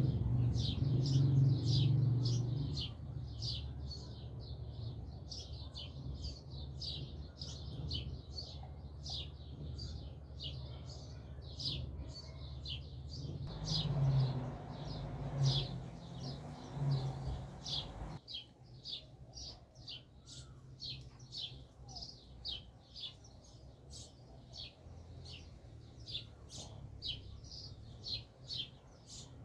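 A small bird chirping over and over, short high chirps about two or three a second. A low rumble sits under it at the start and again about halfway through.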